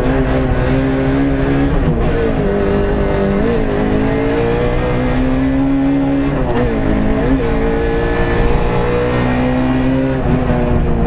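Peugeot 106 rally car's four-cylinder engine heard from inside the cabin, driven hard: the engine note climbs under acceleration and drops sharply about four times as the revs fall.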